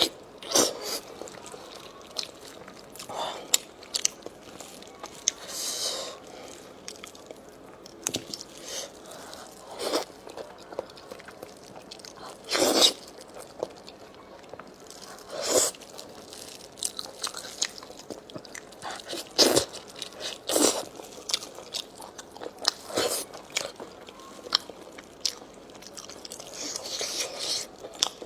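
A person biting and chewing lamb neck meat and lamb trotters: irregular short bites and chews every second or few, the loudest about halfway through.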